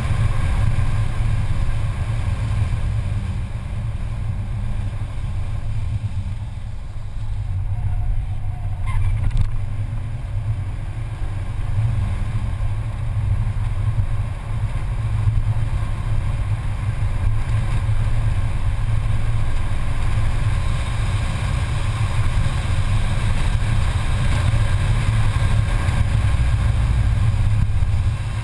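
Mercedes-Benz C280's engine running hard at track speed, heard from inside the cabin together with road and wind noise. It eases off around six seconds in, then pulls strongly again later.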